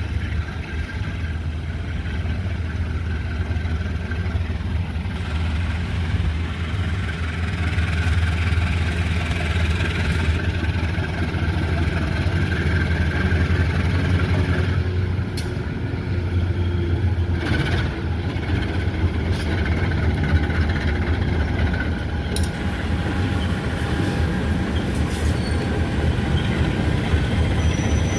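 Train passing: a steady low rumble of locomotive and rolling wagons, with a few sharp clanks around the middle.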